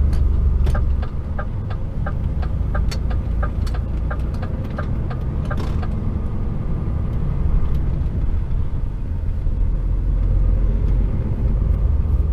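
HGV's diesel engine running with a low rumble heard inside the cab, with the indicator ticking evenly at about two to three ticks a second for the first half, stopping about six seconds in.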